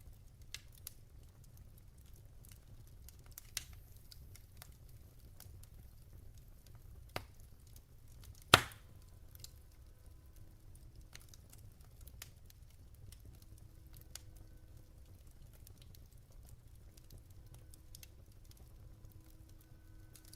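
Wood fire of burning logs crackling, with sparse sharp snaps over a low steady rumble and one much louder pop about halfway through.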